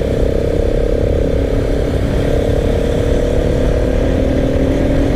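Motorcycle on the move, with heavy low wind and engine rumble on the microphone and a long, steady horn tone held throughout.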